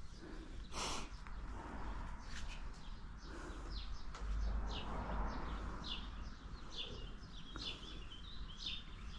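A small bird chirping over and over, short high notes that fall in pitch, about two a second, over a low steady rumble.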